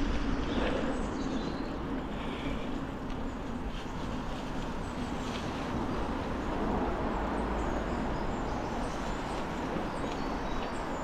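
Norco Storm mountain bike rolling along a trail: a steady noise of knobbly tyres on the ground.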